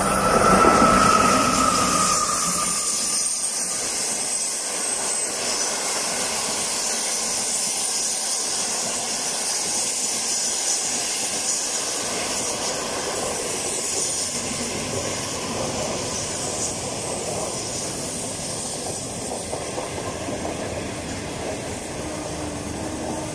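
Passenger train's coaches rolling past, loudest in the first second or two with a high whine that fades out, then a steady rushing hiss as the train moves away.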